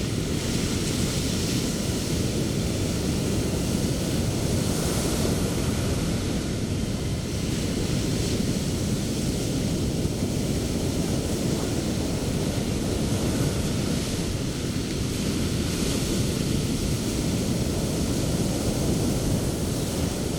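Surf breaking on a beach: a steady low rumble of waves, with the hiss of foam swelling and fading every few seconds.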